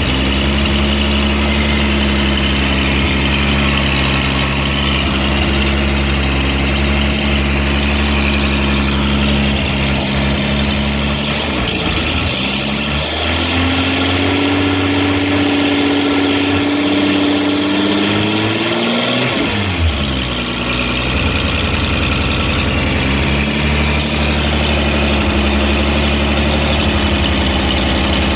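Freshly rebuilt Volkswagen VR6 engine idling with a rattle. About eleven seconds in, the revs rise and are held up for several seconds, then fall back to a steady idle.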